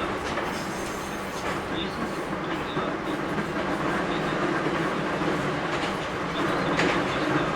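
JR Kyushu 811 series electric train running, heard from inside the car: a steady rumble of wheels on rail with a low hum, and a few clicks from rail joints.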